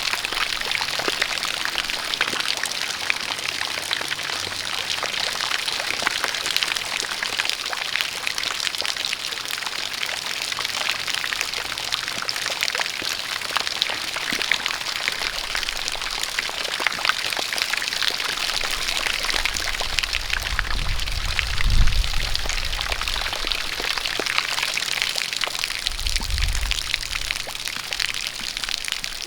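Steady rain with densely spattering drops, mixed with a spout of water pouring and splashing. A brief low rumble comes about two-thirds in, the loudest moment, and a shorter one near the end.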